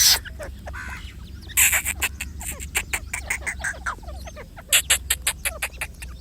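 Grey francolins and their chicks calling: a rapid, uneven run of short sharp chirps and clicks, with a steady low hum underneath.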